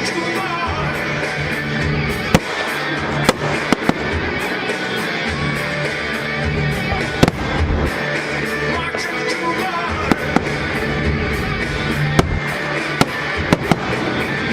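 Fireworks bursting with sharp bangs every second or few, over continuous music.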